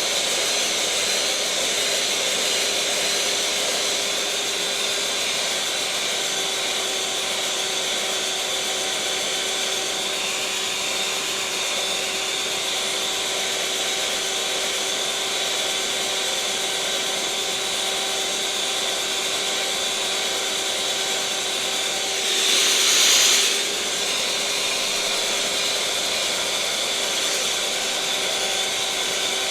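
Electric mixer motor running at a steady speed, a continuous whirring hum with a steady whine. Near the end it briefly gets louder and harsher for a second or two, then settles back.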